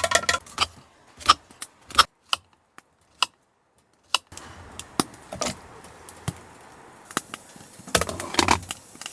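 Metal cooking pots and utensils clinking and rattling in scattered sharp knocks, with a cluster of clinks near the end and a brief silent break in the middle.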